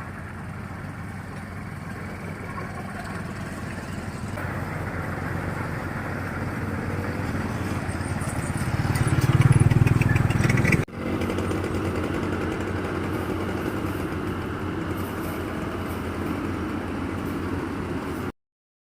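Rice harvester machine's engine running steadily, growing louder about nine to ten seconds in. It drops out for an instant about eleven seconds in, carries on, then stops abruptly near the end.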